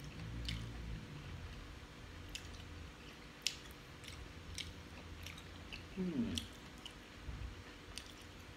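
A man chewing a mouthful of coarsely chopped raw beef koi, with wet mouth smacks about once a second. A short falling hum from his voice about six seconds in.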